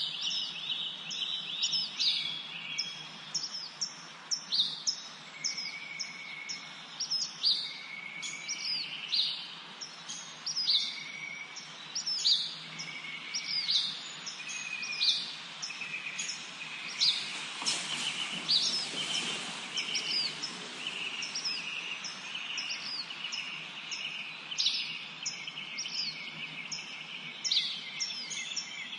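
Several birds singing in a spring forest: a constant run of short, high, sharp chirps about once or twice a second, over a lower short whistled note that repeats every second or two. About 17 seconds in, a rush of noise swells for a few seconds and fades.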